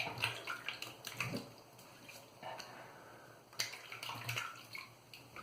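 Water splashing in irregular short bursts as hands rinse shaving lather off the face.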